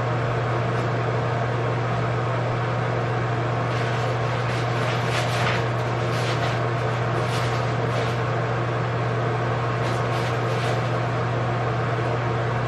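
A steady low mechanical hum, with faint rustles and clicks now and then.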